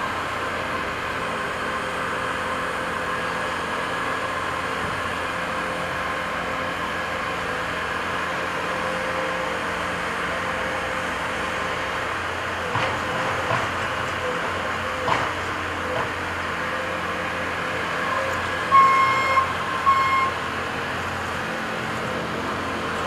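Diesel engine of compact earthmoving equipment running steadily under work, with a few knocks in the middle. Near the end a reversing alarm gives two short beeps.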